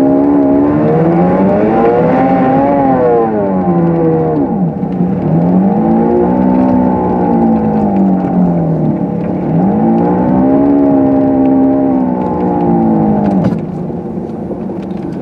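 Pontiac G6's engine revving up and falling back three times, its pitch rising and sinking in long sweeps as the car is driven hard through deep snow, then easing off near the end.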